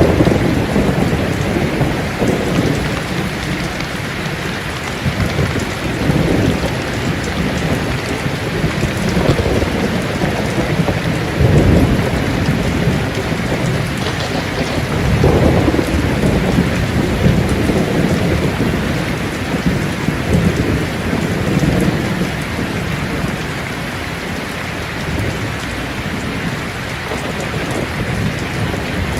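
Steady heavy rain with low rolling rumbles of thunder, swelling most about a third and halfway through.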